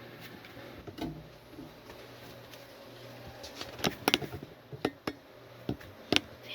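Scattered sharp clicks and knocks of small hard objects being handled, with a quick cluster of them about four seconds in, over a low steady hum.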